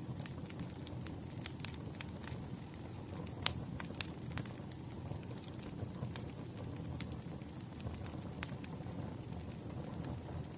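Wood fire burning with a steady low rumble and irregular sharp crackles and pops from the burning logs, one louder pop about three and a half seconds in.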